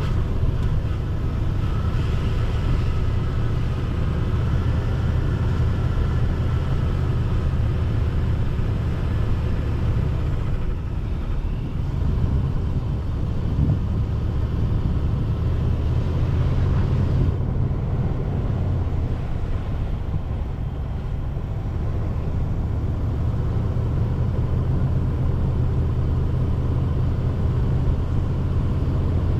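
Car driving along a road, a steady low rumble of engine and tyre noise that eases slightly about a third of the way in before carrying on.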